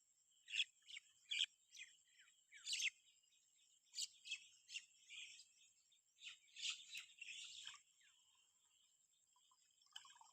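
Small birds chirping: a string of short, high calls in quick irregular succession, which thin out after about eight seconds, with a couple more near the end. A faint steady high whine runs underneath.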